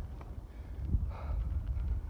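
Wind rumbling on the microphone while riding a road bike over a rough gravel track, with small knocks from the bumpy ground and a short hiss a little over a second in.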